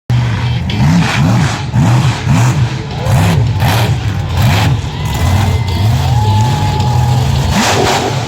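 Monster truck engine revving loudly in a run of quick throttle blips, the pitch rising and falling about eight times, then holding a steadier note with a brief dip near the end.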